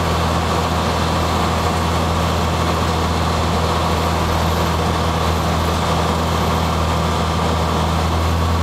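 Cessna 182's piston engine and propeller droning steadily at a constant pitch.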